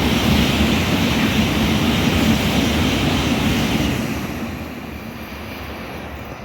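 Sanyo Shinkansen train running through the station, a loud rushing noise that dies away from about four seconds in.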